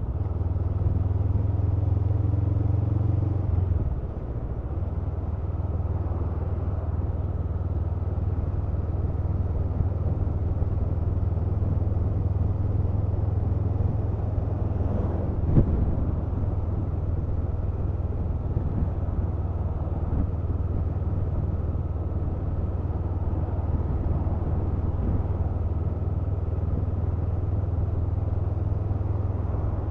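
Honda CMX500 Rebel's parallel-twin engine running steadily on the move, with road and wind noise. The engine note drops about four seconds in, and there is one brief sharp knock about halfway through.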